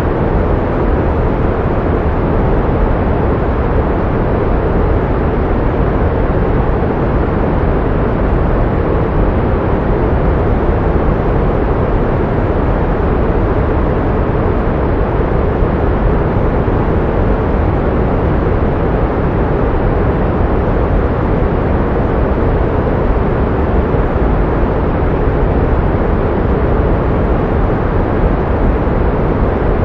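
Steady pink noise: a constant, even hiss, fullest in the low and middle range and fading toward the top, with no change in level.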